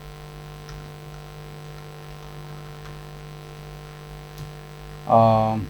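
Steady electrical mains hum on the recording, a low buzz with a strong hum line and its overtones. Near the end a short voiced sound from the speaker breaks in.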